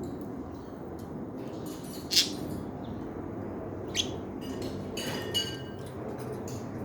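Pet budgerigars chirping in short, scattered calls, the loudest about two seconds in, over a steady low background noise.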